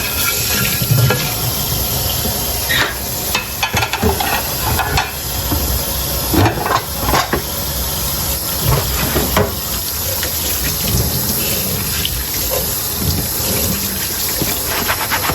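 Tap water running steadily into a sink while dishes are washed by hand, with scattered clinks and knocks of dishware, and quick rubbing strokes near the end.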